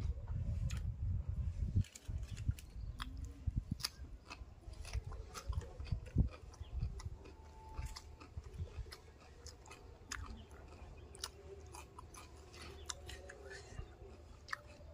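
Close-up mouth sounds of a man eating fish curry and rice by hand: chewing and biting with many short, sharp mouth clicks. A low rumble sits under the first two seconds.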